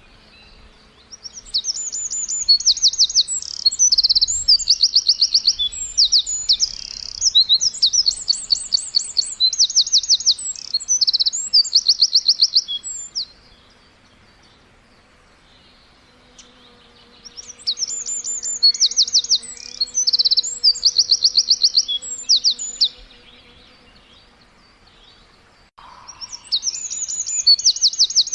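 Songbird chirping in long bouts of fast trilled phrases, each a rapid run of evenly repeated high notes, with pauses of a few seconds between the bouts.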